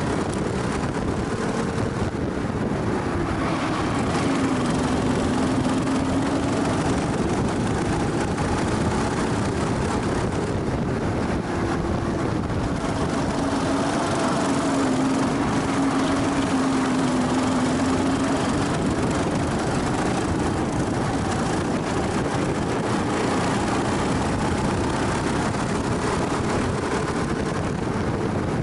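Go-kart engine heard onboard at speed, its pitch rising and falling several times as the revs go up and down around the circuit, over a steady rushing noise.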